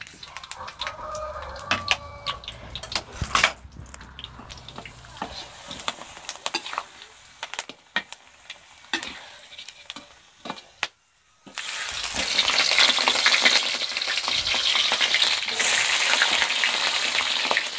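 Jengkol frying in a little oil in an aluminium wok, a light sizzle broken by sharp clicks and knocks as pieces are dropped in and a metal spatula works against the pan. About twelve seconds in, this gives way to salted milkfish (bandeng) frying with a much louder, steady sizzle.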